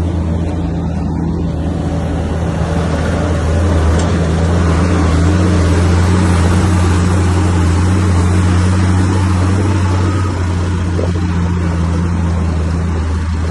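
Heavy diesel engine of earthmoving machinery running under load with a steady low drone, getting louder a few seconds in and easing off near the end.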